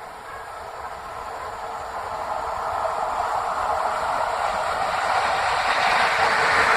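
A train approaching along the track, its noise growing steadily louder.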